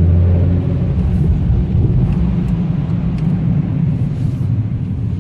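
Nissan GT-R's twin-turbo V6 and titanium exhaust running while the car drives: a deep, steady low drone.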